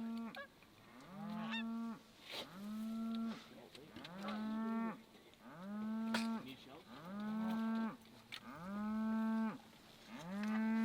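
A cow bawling over and over: about eight moos in a steady rhythm, each just under a second long with a brief rise in pitch at the start, then level.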